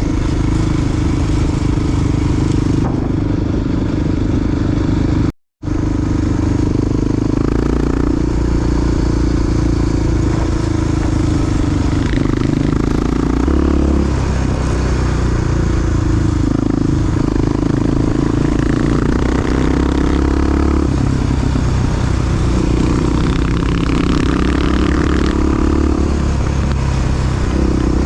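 Big single-cylinder Honda XR dual-sport motorcycle engine running while riding, its revs rising and falling with throttle and gear changes. The sound cuts out for a split second about five seconds in.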